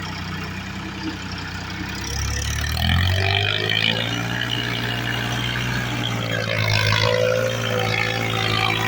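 New Holland 3630 tractor's three-cylinder diesel engine running under load, its pitch rising about two to three seconds in and then holding steady.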